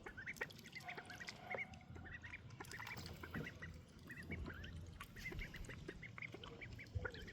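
Ducklings peeping: many short, high calls in quick succession, overlapping throughout.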